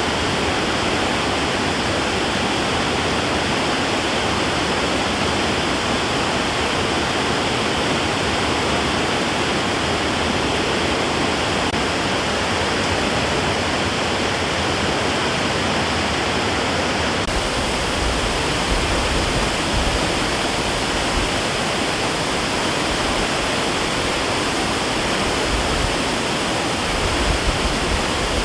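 Floodwater pouring through a dam's open spillway gates in a heavy-rain flood release: a steady, dense roar of falling and churning water. About two-thirds of the way through the sound shifts, with more deep rumble underneath.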